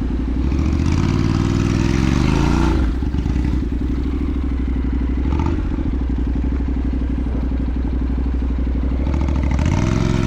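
Motorcycle engine pulling away. The revs climb for about two seconds, drop sharply at a gear change, run steady, then climb again near the end.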